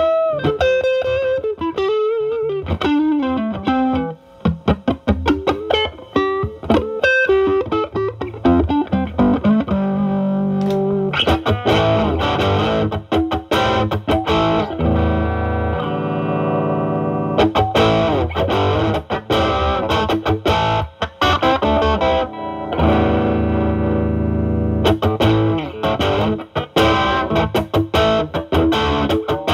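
Electric guitar, a Stratocaster with single-coil pickups, through a Ceriatone Centura Klon-clone overdrive pedal into a Marshall Valvestate amp's drive channel, playing bluesy lead lines. It starts with bent single notes, then moves to chords and quick runs. From about halfway through the pedal's gain is set at 9, for a more overdriven tone.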